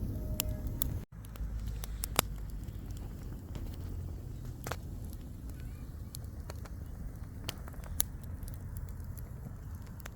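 Stick campfire crackling, with scattered sharp pops over a steady low rumble. The two loudest pops come about two seconds in and near the end.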